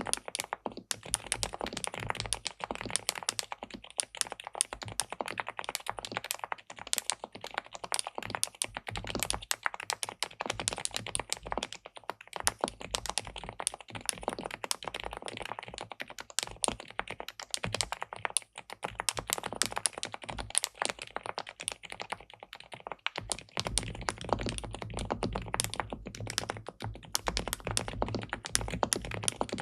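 Fast, continuous typing on an SPM PL87W tenkeyless mechanical keyboard with a PC plate and linear switches: a dense stream of keystroke clicks without pause.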